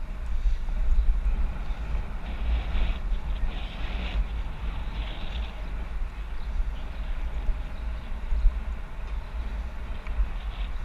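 Wind buffeting the microphone of a bike-mounted action camera while riding, a steady low rumble with a rushing hiss, the hiss brighter for a few seconds from about two seconds in.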